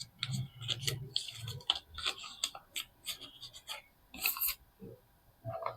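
Soap being unpacked by hand from its packaging: a quick run of crinkles, scratches and small taps, loudest a little past four seconds in.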